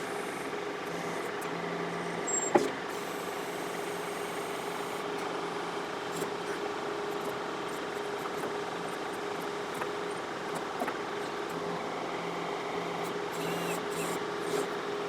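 John Deere 4052R compact tractor running steadily with a constant hum while working its 485A backhoe to dig out a stump. A single sharp knock about two and a half seconds in.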